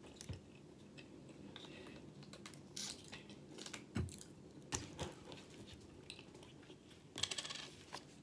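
Close-up eating sounds: quiet chewing with scattered mouth clicks and small knocks, the loudest thud about four seconds in as a plastic drink bottle is handled, and a short crackle near the end.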